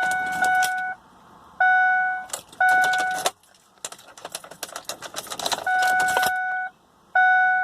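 Ford Explorer's warning chime sounding in steady beeps, five times, mixed with keys jangling and rattling in the ignition. No starter cranking is heard: the seized engine does not turn over.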